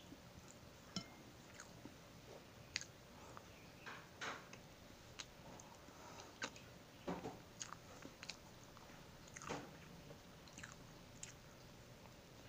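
Faint mouth sounds of a man chewing soft mamon sponge cake: scattered short smacks and clicks, a few seconds apart.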